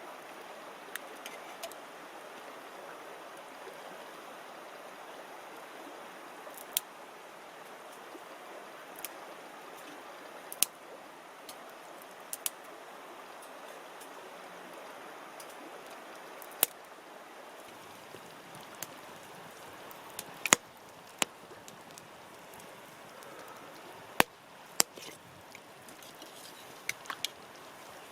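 Wood campfire crackling, with sharp pops every few seconds over a steady rushing hiss.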